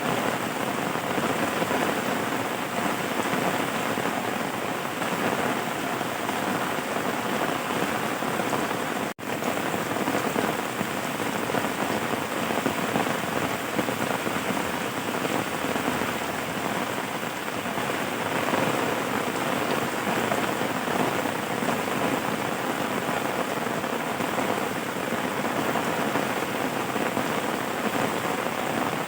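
Steady rain falling, an even hiss of drops, with a momentary break in the sound about nine seconds in.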